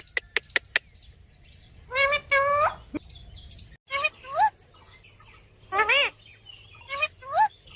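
Parrot calling: short, pitched calls that rise in pitch, coming in clusters every couple of seconds. A quick run of sharp clicks comes in the first second.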